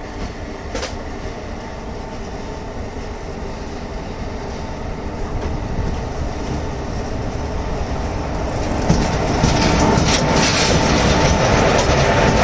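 Electric locomotive running on the rails with a steady hum, growing louder as it approaches. From about nine seconds in, the wheels clatter over the rail joints.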